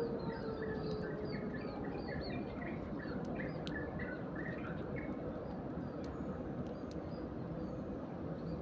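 Flock of Eurasian tree sparrows chirping: a busy run of short, quick chirps that thins out after about five seconds, over a steady low rumble of background noise.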